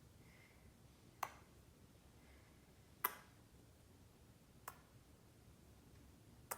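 Near silence with four short, sharp clicks spaced about one and a half to two seconds apart.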